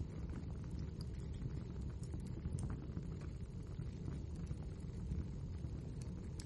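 Wood fire burning steadily: a low rumble of flames with scattered small crackles and pops from the burning logs.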